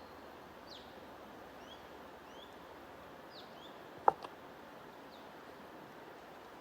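Small songbirds giving short, falling chirps now and then over a steady background hiss. A single sharp click about four seconds in is the loudest sound.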